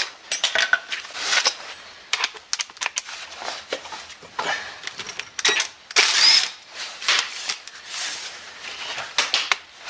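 Irregular metallic clicks, knocks and clanks of hand tools and loose suspension parts being handled during front hub and steering-knuckle work, with no steady rhythm.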